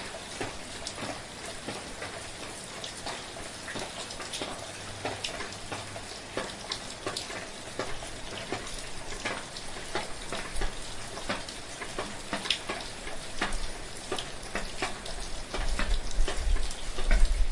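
Steady rain with many distinct drops pattering close by. A low rumble swells near the end.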